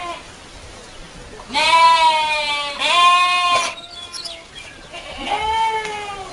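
An animal bleating: three long, loud bleats, the first two back to back and the third about a second and a half later.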